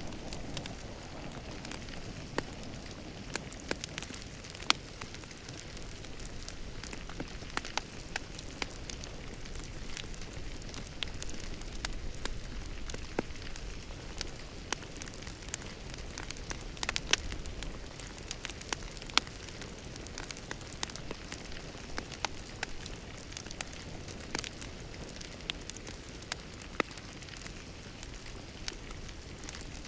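Fire in a fireplace crackling steadily over a soft hiss, with irregular sharp pops, a few of them louder than the rest.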